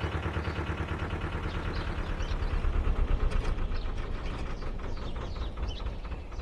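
Narrowboat diesel engine running with a steady, rapid chug that dies away near the end, with birds chirping over it.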